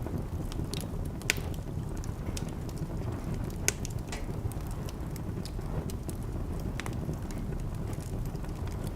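Wood fire crackling in a fireplace, with scattered small crackles over a steady low rumble and two sharper pops, about a second in and again near four seconds.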